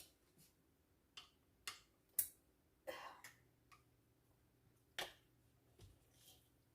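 Faint, scattered clicks and light taps of kitchen handling at the stove, about eight in all at uneven intervals, with no steady sizzle beneath them.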